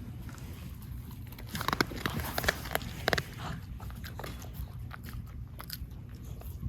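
Crunchy chewing: a quick run of sharp crunches from about two seconds in, then a few fainter ones.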